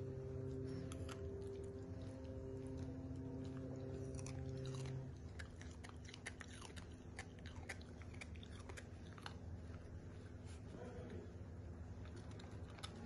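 A dog chewing and biting into raw vegetables or fruit, with many short crunches. A steady low hum runs underneath and stops about five seconds in.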